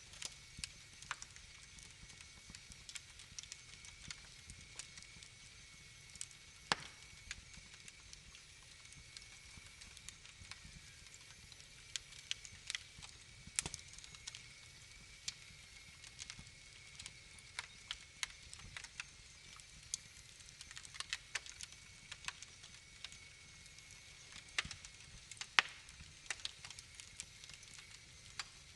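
Wood fire crackling: irregular sharp pops and snaps, a few louder ones among many small ones, over a faint steady hiss.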